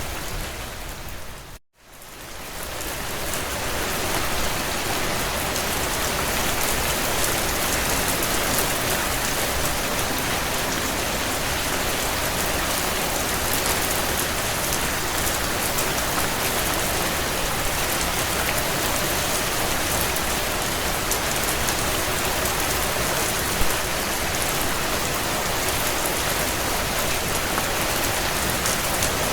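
Steady heavy rain pattering on a surface, a dense even hiss. About a second and a half in it drops out to near silence and fades back up over the next couple of seconds; a single short pop stands out near the end.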